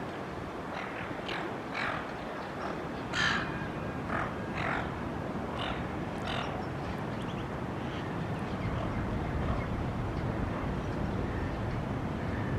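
Birds feeding in a flock giving a series of short squawking calls, the loudest about three seconds in, over a steady background hum.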